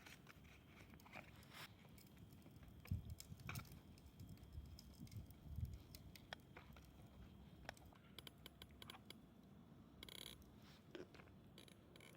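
Near silence, with faint scattered ticks and clicks and a low background rumble.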